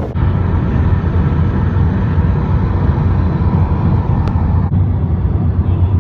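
A steady low mechanical rumble with a faint steady hum above it, briefly broken about three-quarters through.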